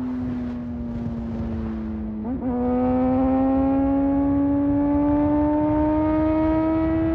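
Honda CBR600RR sport motorcycle's inline-four engine under way. Its note sags slightly, breaks briefly about two seconds in, then rises steadily as the bike accelerates.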